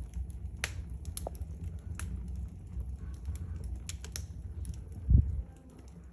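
Wood fire burning in a fireplace, with sharp irregular crackles and pops over a low steady rumble. A single low thump about five seconds in.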